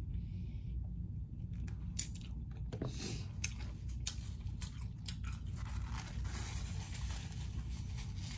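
Close-miked chewing of saucy chicken wings, with crunches, wet smacks and crackles, busiest from about six seconds in, over a steady low hum.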